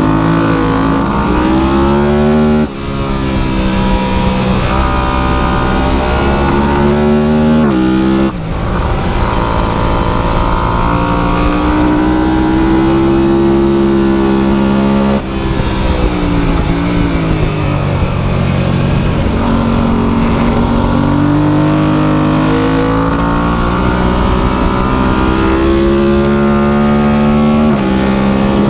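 A high-revving racing engine under hard acceleration and braking, its pitch climbing and falling continuously, with sudden drops in pitch three times as it shifts up a gear.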